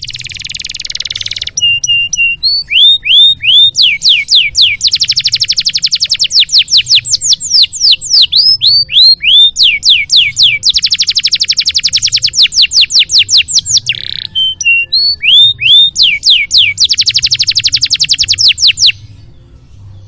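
Domestic canary singing a loud, full song. It opens with a short rasp, then runs fast trills and series of downward-sweeping whistled notes in repeated phrases, and breaks off about a second before the end.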